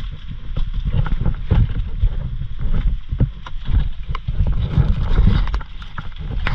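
Heavy rain and wind on a small boat: a loud, uneven low rumble of wind buffeting the microphone, with many short ticks of raindrops and spray hitting it.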